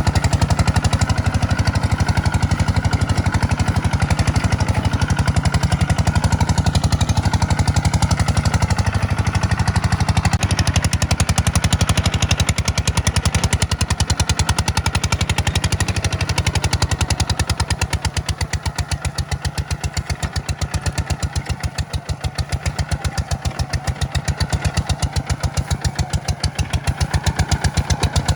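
Kubota tractor's diesel engine running steadily with an even pulse. It eases off a little past the middle and picks up again near the end.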